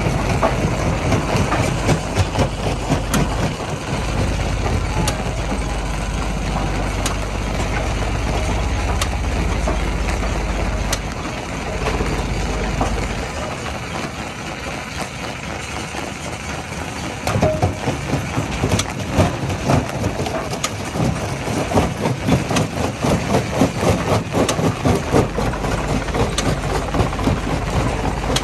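Heavy diesel machinery running at a rock crushing site, with a steady low engine drone at first. Later, dense irregular knocking and clattering of rock being crushed starts about two-thirds of the way through.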